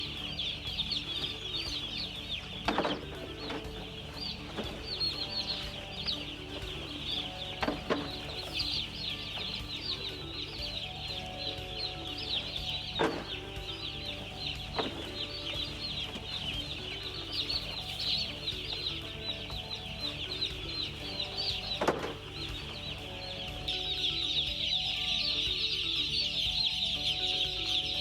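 Broiler chicks peeping continuously, a dense chorus of high, short chirps that grows louder about four seconds before the end. A few brief, sharper sounds stand out now and then.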